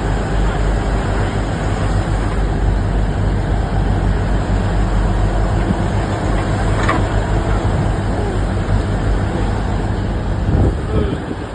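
Ship's engine running with a steady, loud low drone mixed with a dense rumble, and a brief sharper sound about seven seconds in.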